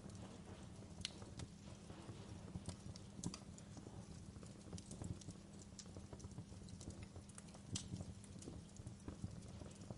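Wood fire in a fireplace crackling: a steady low noise of burning, with irregular sharp pops and snaps. The louder snaps come about a second in, near the middle and near the end.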